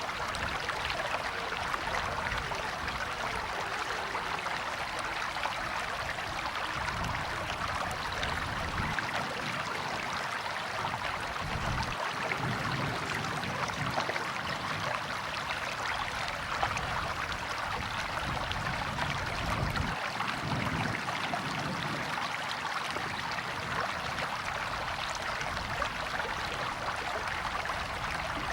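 River water flowing steadily over stones, an even rushing without pauses.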